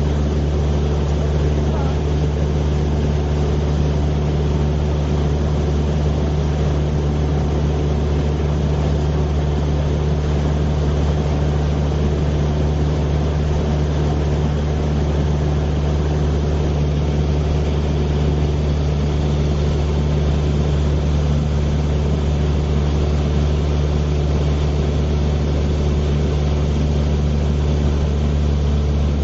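Steady drone of a helicopter heard from inside the aircraft: rotor and engine noise with a constant low hum and no change in level.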